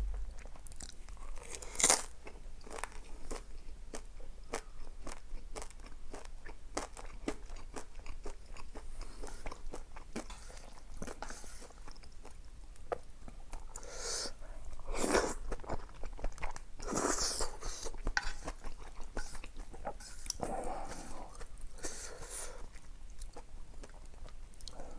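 A person eating close to the microphone: steady chewing full of small wet clicks, with louder crunching bites about two seconds in and again around fifteen and seventeen seconds.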